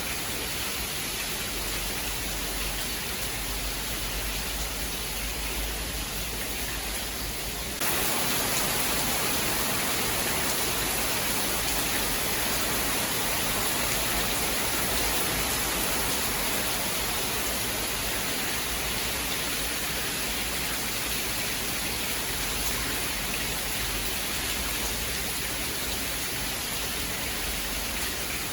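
Steady rain hiss, a dense even downpour. About eight seconds in it abruptly gets louder and hissier, then eases slightly.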